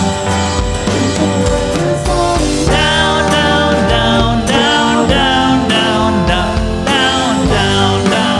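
A band playing a funk- and soul-tinged rock song: a bass-and-drum groove with piano and guitar, and a wavering melody line coming in about three seconds in.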